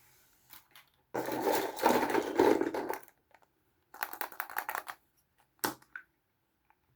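Plastic packaging crinkling and rustling as it is handled, then a quick run of small crisp clicks and one sharp click near the end.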